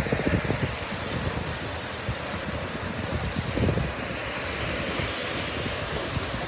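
Water gushing steadily from a sheared-off fire hydrant as a high fountain, a continuous rushing spray. Wind buffets the microphone with a low, irregular rumble.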